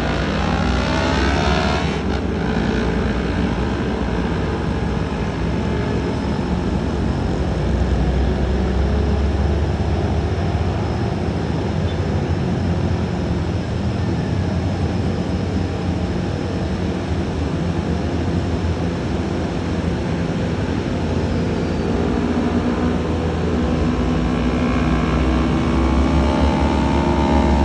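Yamaha R25 parallel-twin motorcycle engine running while riding, under steady wind rush. The engine note climbs as it accelerates near the end.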